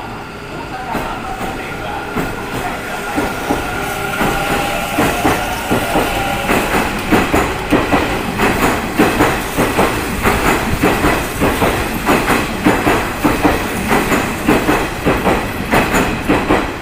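Kintetsu electric train running past, with a steady whine that gives way after about six seconds to a loud, regular clickety-clack of wheels over rail joints.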